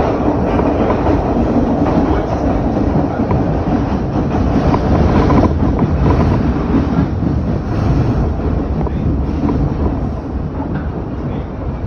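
New York City Subway R62A train running through the tunnel: a steady, loud rumble of wheels on rail with some clatter, easing slightly in level near the end.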